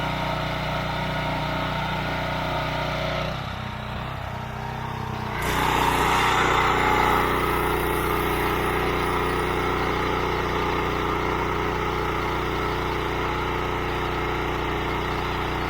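Gas engine of a Predator commercial-duty pressure washer running steadily, with the hiss of the high-pressure spray. The sound drops for about two seconds around three seconds in, then the spray hiss comes back louder.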